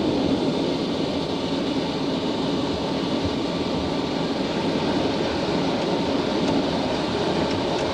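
Concorde flight-deck noise during the landing rollout: a steady rumble and hiss as the airliner slows down the runway after touchdown.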